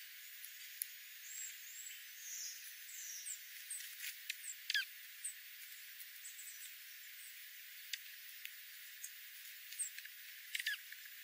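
Faint, scattered high-pitched chirps and ticks from small birds over a steady hiss, with a sharper click a little before the middle.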